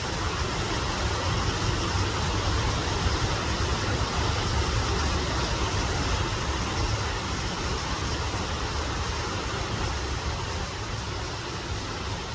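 Steady rushing noise of a waterfall, with a low rumble underneath, holding even throughout.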